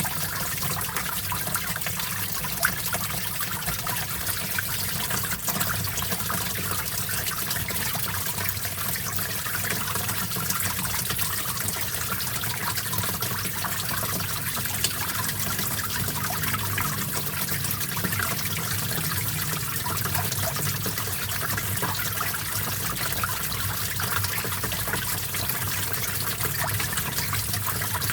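Small stream of water flowing and trickling steadily, with a fine splashing patter.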